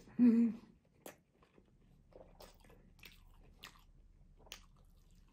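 Close-miked mouth sounds of someone eating grilled minced-meat kebab: chewing with wet clicks and smacks at irregular moments. It opens with a short, loud voiced 'mm' from the eater.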